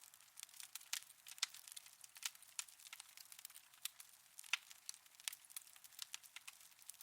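Wood fire in a fireplace crackling, with irregular sharp pops and snaps a few times a second.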